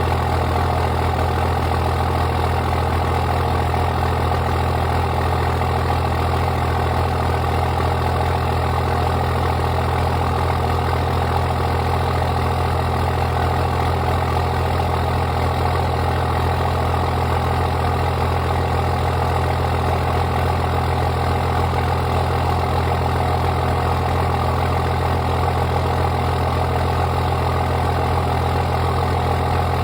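24-valve Cummins 5.9-litre inline-six turbodiesel idling steadily through a 5-inch straight-pipe exhaust with no muffler, still cold after a cold-weather start. The idle holds an even pitch and level with no revving.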